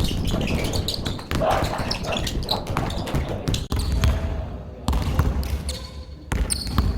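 Basketball being dribbled during a one-on-one game: a run of sharp bounces on the court floor.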